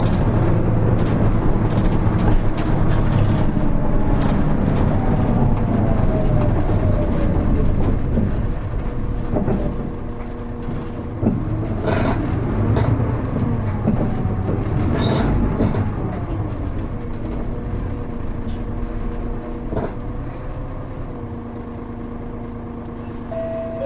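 Inside a KL-HR1JNEE (Hino Rainbow HR) city bus on the move: its diesel engine and drivetrain run loud for the first several seconds, with a falling whine. The sound then eases and grows quieter as the bus slows, with a few sharp rattles and knocks from the cabin.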